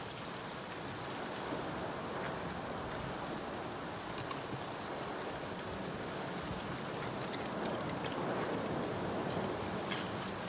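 Close recording of a lava flow from the La Palma volcano played over loudspeakers: a steady rushing with scattered sharp glassy clinks, like a basket full of rubble and glass. The molten lava sounds crystalline rather than liquid.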